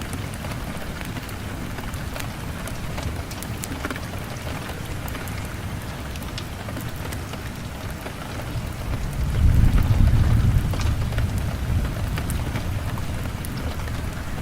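Steady rain with scattered sharp crackles from a fireplace. A low rumble of thunder swells about two-thirds of the way through, then fades.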